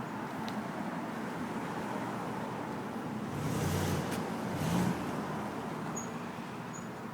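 A car passes close by, swelling up and fading over about two seconds in the middle, over a steady background of street traffic.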